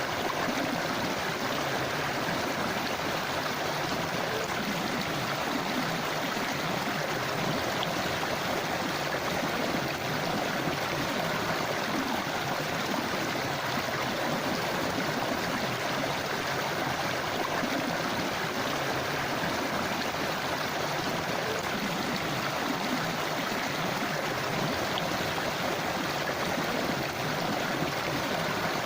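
River water flowing over rocks, a steady rushing babble with no pauses.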